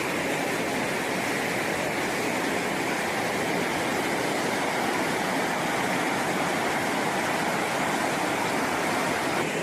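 Steady, even rush of flowing water from a flooded river.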